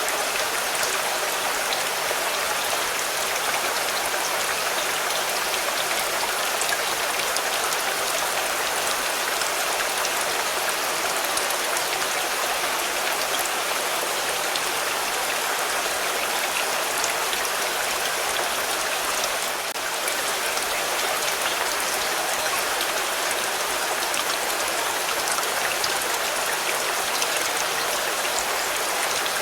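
Steady rain falling on a car, a dense patter of individual drops hitting it.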